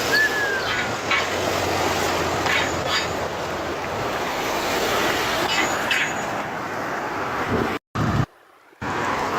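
Steady rushing wind and rolling noise from riding a loaded touring bicycle, cutting out briefly twice near the end.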